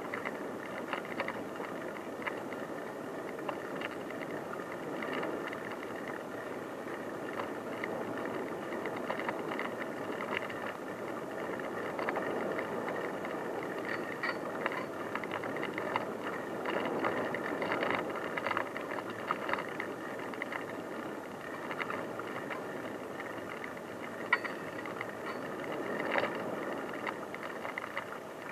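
Bicycle riding along an unpaved track: steady tyre and rolling noise with frequent small rattles and clicks from the bike.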